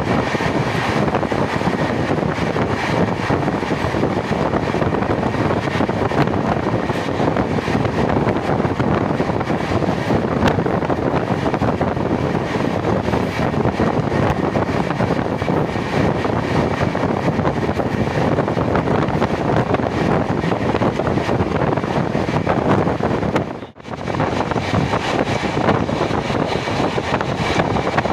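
Steady rushing noise of an express train's sleeper coach running at speed, heard from on board, with wind buffeting the microphone. It cuts out sharply for a split second near the end, then resumes.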